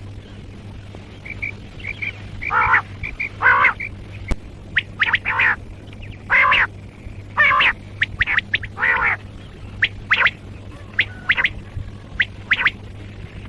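Common quail calling: a run of short, harsh, pitched calls about one a second, mixed with quick high notes, over a faint steady low hum.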